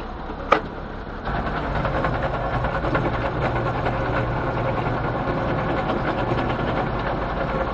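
Old BMC truck's engine running with a steady clattering idle. A short sharp click comes about half a second in, and the engine sound gets abruptly louder just after a second in.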